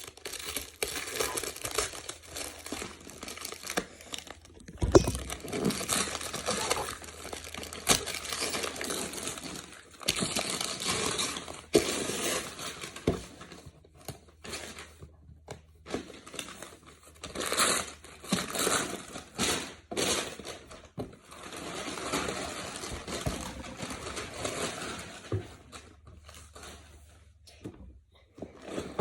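Wrapping paper being torn and crumpled by hand as a present is unwrapped, in irregular stretches of crinkling with sharp rips and short pauses.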